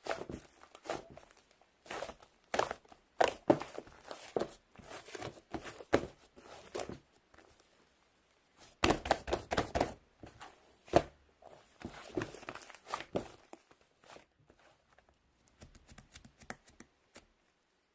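Irregular handling noises in a small room: a run of uneven taps, knocks and short rustling scrapes, with brief pauses between clusters.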